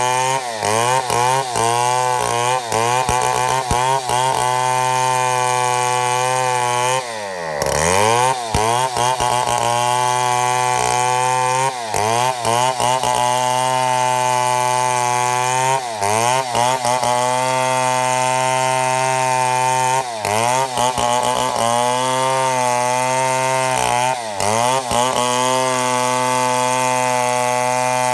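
Chainsaw running at high revs while milling a mahogany log into slabs. Its engine note dips briefly every few seconds and most deeply about seven seconds in, then climbs back each time.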